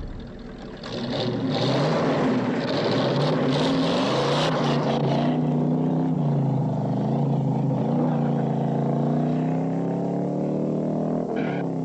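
Car engines running hard during a car chase, their pitch rising and falling as they rev, with a hissing noise over the first few seconds.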